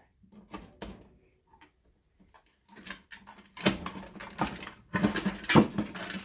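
Metal clinking and scraping as a cracked-open fluorescent light ballast is pulled apart by hand. A few light ticks at first, then denser clattering and scraping from about halfway.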